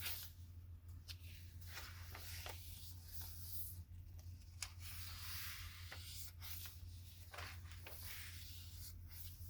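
Paper pages of a handmade junk journal being turned and handled: soft rustling and crinkling with scattered light clicks, over a low steady hum.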